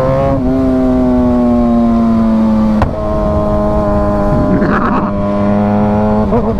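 Sportbike engine running under way, its pitch sagging slowly for the first three seconds, then a sharp click and a brief rough patch near five seconds before it settles steady again.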